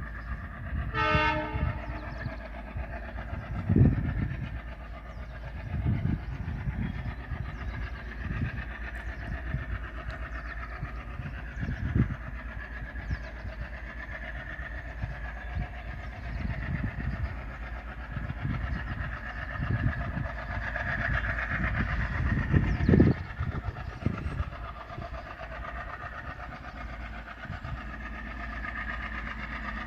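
Diesel-hauled freight train rolling past, a steady low rumble with wheels clattering over rail joints and occasional heavy thumps. A short blast of the locomotive horn sounds about a second in.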